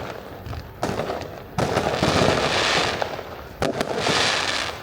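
Aerial fireworks shells bursting in the sky. Three sharp bangs are spaced over the few seconds, and each of the later two is followed by a hissing crackle lasting about a second.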